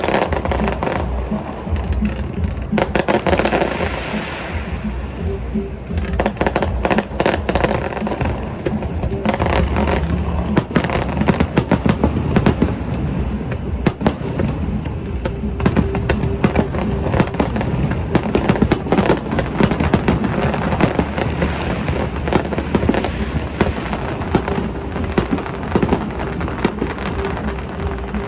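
Fireworks display: a rapid, steady run of bangs and crackling, thickest in the middle, over a continuous low rumble, with music playing underneath.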